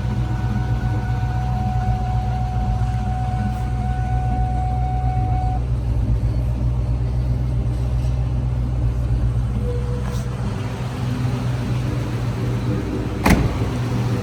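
2003 Ford SVT Cobra's supercharged 4.6-litre V8 idling steadily, still warming up after a cold start. Near the end there is a single sharp click.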